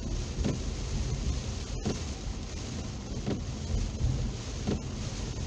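Heavy rain on a car, heard from inside the cabin, over a steady low rumble of the car moving on a wet road. The windshield wipers sweep about every second and a half.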